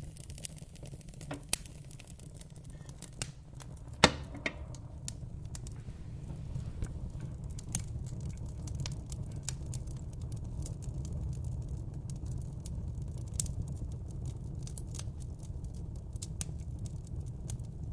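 Wood fire in a fireplace crackling, with irregular sharp pops and snaps over a low steady rumble of the flames; one loud pop about four seconds in.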